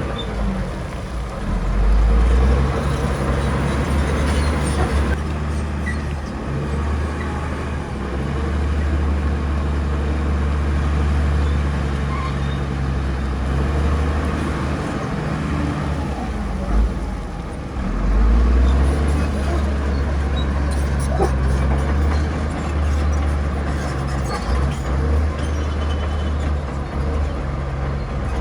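Heavy diesel earthmoving machinery running under load, the engine sound swelling and easing several times as the machines work.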